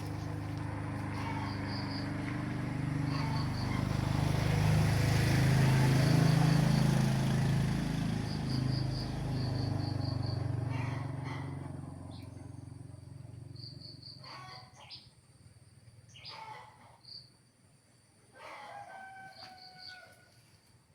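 Crickets chirping in short repeated pulses, while a low engine drone swells to a peak and fades away over the first half. In the quieter second half a few short calls sound, ending with one longer drawn-out call.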